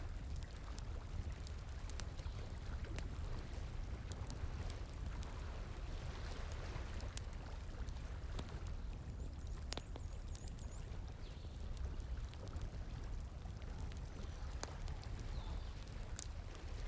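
Wood campfire crackling, with scattered sharp pops and snaps, over the steady rush of flowing stream water.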